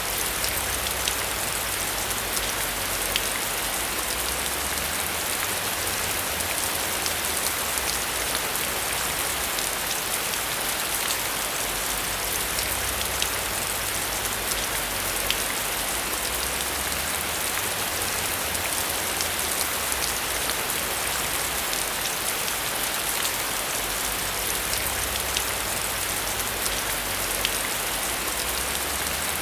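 Heavy rain falling steadily: a dense, even hiss with individual drops ticking through it and a low rumble underneath.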